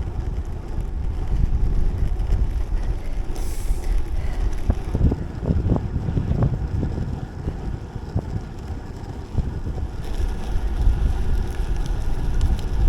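Wind buffeting the microphone while riding a bicycle on the road: a gusting low rumble with rolling road noise.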